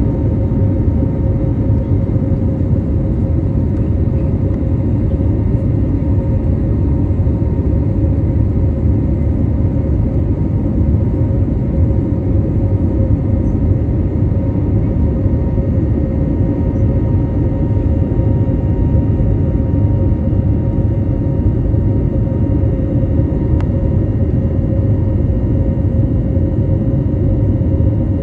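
Airliner cabin noise: the steady, unchanging rumble of engines and airflow inside the plane, with a faint steady hum over it.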